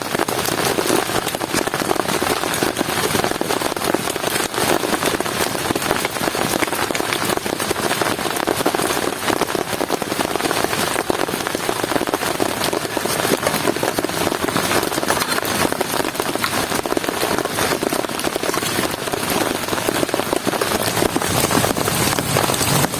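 Heavy rain falling steadily, a dense hiss of countless drops striking a surface.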